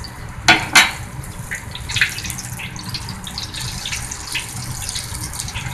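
Egg foo young patties sizzling steadily in hot oil in a wok, with scattered crackles. A metal spatula clacks twice against the wok about half a second in.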